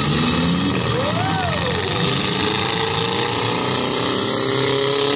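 Several compact demolition-derby car engines running together, one revving up and falling back about a second in, with crowd chatter from the stands.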